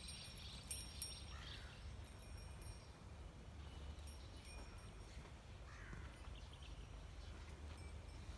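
Faint bird calls, twice, over a steady low rumble of outdoor ambience.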